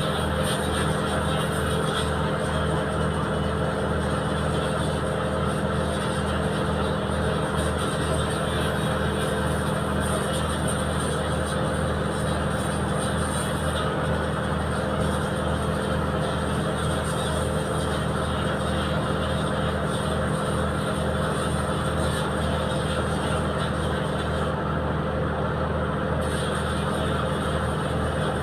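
Boat's diesel engine running steadily at a constant speed, a continuous drone.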